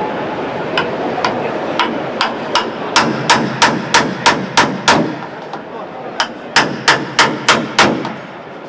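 Hammer striking steel car bodywork in quick sharp blows, about three a second: panel-beating a Triumph TR7's door frame and body into shape. The blows start lighter, grow loud about three seconds in, pause briefly, then run on.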